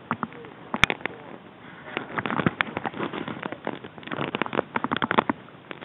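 Irregular sharp clicks and pops in uneven clusters, with one loud snap about a second in.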